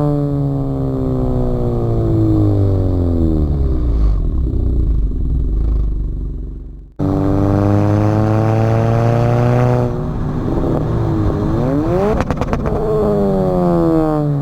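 Honda Accord 1.5-litre turbo four-cylinder running through a catless downpipe and aftermarket cat-back exhaust. The exhaust note falls as the revs drop, cuts off abruptly about halfway, then comes back steady. About two-thirds through the revs change quickly with a brief crackle, and near the end they fall again.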